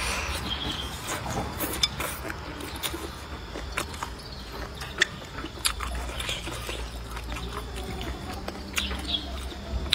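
A person biting and chewing squid close to the microphone, wet mouth sounds, with a few sharp clicks scattered through.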